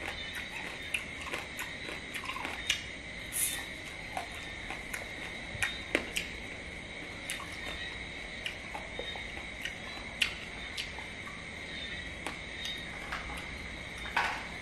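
Close-up chewing of crab: scattered small wet clicks and soft crunches of the mouth. A steady high-pitched whine runs underneath.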